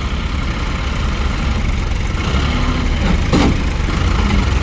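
Tractor engine running steadily with a low, pulsing rumble. There is a brief sharp knock about three seconds in.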